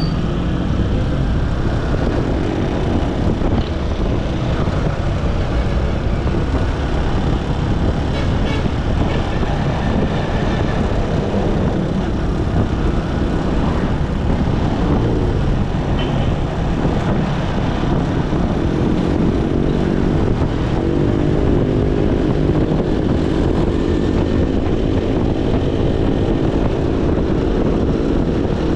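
Motorcycle engine running with road and wind noise while riding. A steady droning engine note with a clear pitch becomes prominent for the last third.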